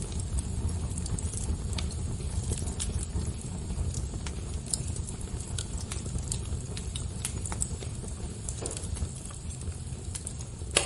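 Fire crackling: irregular sharp pops and snaps over a steady low rumble, with one louder pop near the end.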